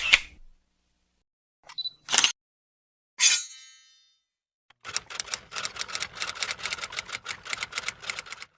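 A string of short sound effects: a click, a double click like a camera shutter, and a bright ding that rings out briefly. These are followed by a fast, even run of clicks, about eight a second, like typewriter keys or a camera firing in burst mode.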